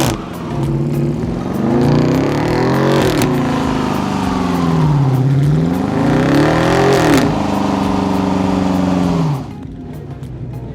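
Car engine revving hard, its pitch swinging up and down again and again, then easing off and dropping quieter near the end.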